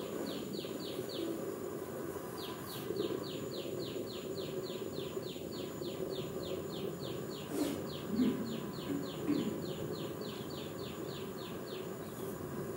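A bird calling: a high chirp repeated about three times a second, each note sliding down in pitch, with a short break about a second in. Under it is a steady low hum of background noise.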